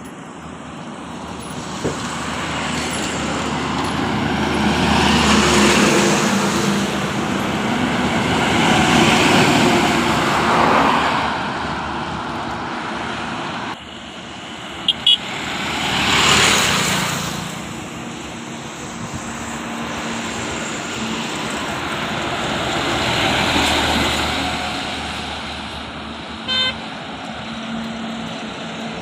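Road traffic with heavy vehicles, trucks among them, passing one after another: the noise swells up and fades four times. Short horn toots sound about halfway through and again near the end.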